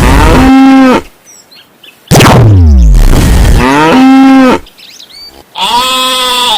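Loud repeated sound effect: twice, a steeply falling glide is followed by a short moo-like call, and a higher call comes near the end.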